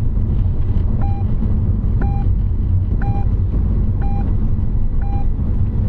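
FM radio's hourly time signal: five short beeps, one a second, heard from the car radio over the steady low rumble of the car's engine and tyres inside the cabin.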